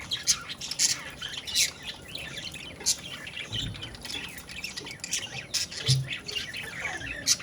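Budgerigar chattering in quick, sharp chirps and squawks, with a couple of brief low thumps in the middle.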